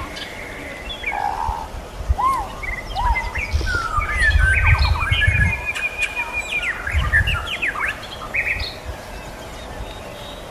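White-rumped shama and sikatan londo singing: a varied run of clear whistles and quick up-and-down sweeps, with a long trill through the middle. Low rumbling runs underneath the song in the middle.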